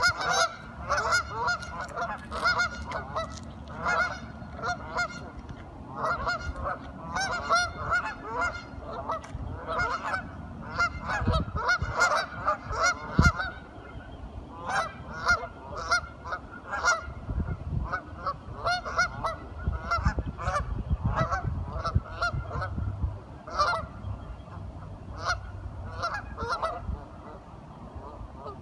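A flock of ducks quacking: many short calls overlapping almost without a break, densest in the first half.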